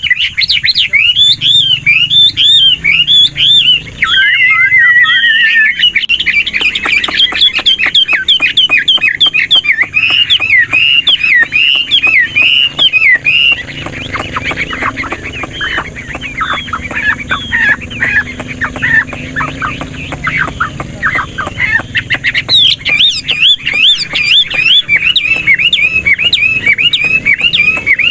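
Chinese hwamei singing a continuous, rapidly varied song of quick rising and falling whistled notes, switching phrases without pause. It is somewhat softer through the middle and louder again near the end.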